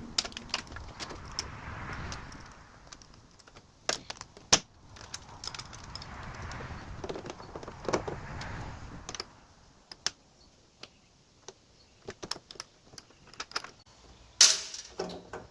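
Hand work with small metal hardware: scattered clicks, clinks and knocks of bolts, nuts, terminals and tools being handled and fitted, with rustling between them and a sharper knock near the end.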